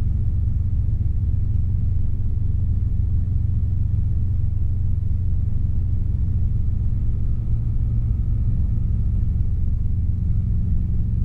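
Robinson R22 helicopter's piston engine and rotors running in a steady, unbroken low drone while hovering close to the ground.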